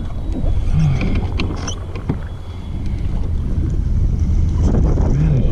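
Strong wind buffeting the microphone, a constant low rumble, with a few light clicks and knocks from the kayak about a second and a half in.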